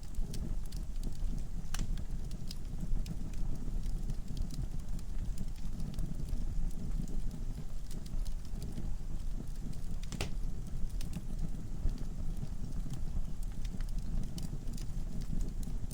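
Wood fire burning in a fireplace: a low steady rumble of flame with frequent sharp crackles and pops from the logs, one louder pop about ten seconds in.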